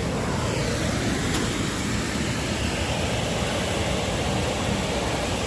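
Steady rushing noise with a fluttering low rumble.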